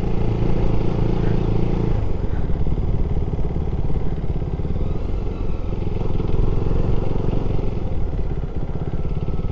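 KTM 390 Duke's single-cylinder engine running as the motorcycle is ridden, a steady low engine note whose upper tones drop away about two seconds in.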